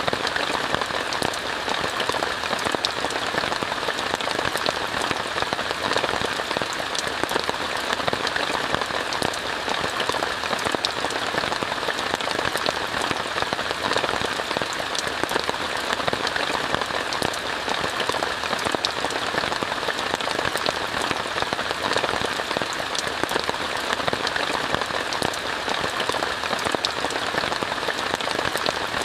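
Steady rain falling on a tent, a dense hiss of countless small drop impacts that stays even throughout.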